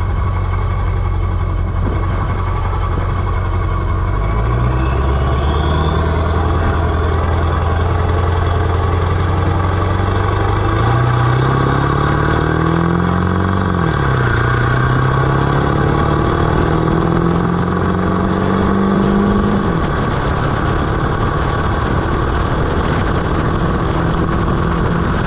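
Ford 7.3 Power Stroke turbodiesel V8 in a Super Duty pickup pulling under moderate throttle, its pitch climbing then dropping sharply twice as the truck shifts up, before settling into a steady cruise. A high whistle rises with the first pull: the turbo spooling.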